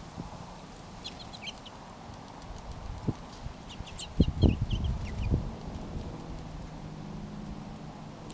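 Small birds chirping in two short bursts of quick, high notes. Several low knocks come midway and are the loudest sounds.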